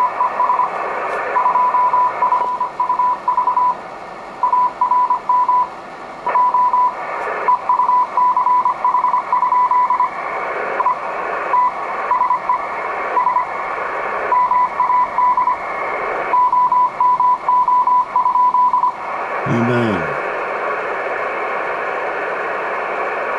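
Morse code (CW) received on an Icom IC-718 HF transceiver: a single-pitch beep keyed on and off in short and long marks over steady band hiss. The keying stops near the end, leaving the hiss and a brief falling tone.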